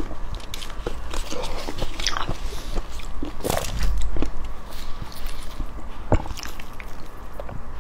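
Close-miked eating sounds: a person biting and chewing soft, saucy grilled eggplant and pig skin, with wet mouth clicks and smacks throughout. There is a low bump near four seconds and a sharp click about six seconds in.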